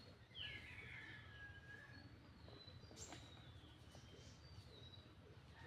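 Faint bird calls: a few short chirps and whistles, one sliding down in pitch about half a second in. A single sharp click about three seconds in.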